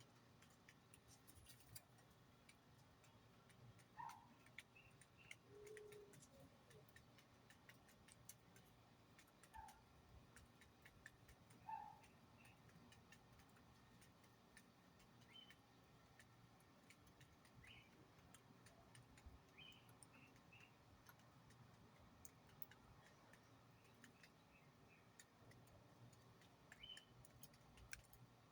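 Near silence with faint, scattered short bird chirps every few seconds and light ticking in between.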